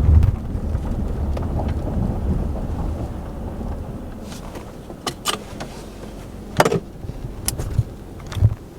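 Low rumble of a vehicle on the move, dying away over the first few seconds as it slows, followed by a few sharp clicks and knocks.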